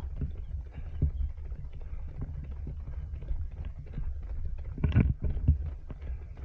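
Low rumble of wind and jostling on a body-worn action camera carried by a runner, with scattered footfall thumps; the loudest thumps come about five seconds in.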